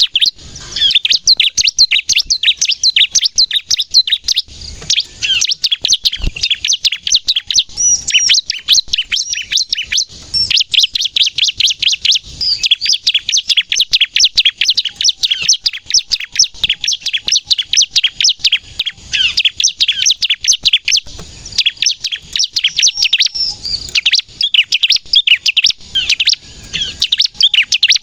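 Bar-winged prinia (ciblek) singing in full, continuous voice: a fast, rapid-fire stream of sharp high chirps, broken only by a few short pauses.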